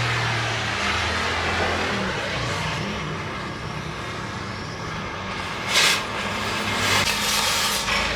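An engine running with a steady hiss over it, its pitch shifting now and then; two short, louder bursts of hiss come near the end.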